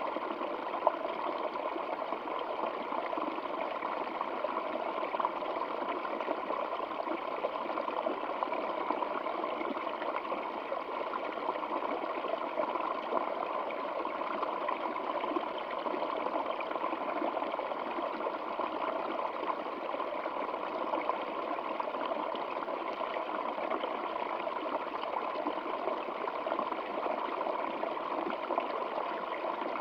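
Stream water flowing and gurgling steadily, a dense even babble.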